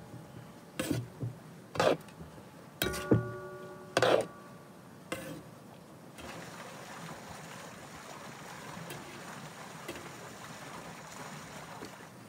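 Metal spatula knocking and scraping against a large metal pan while rice pilaf is turned over: about five sharp knocks, each with a brief metallic ring, in the first five seconds. After that only a steady hiss.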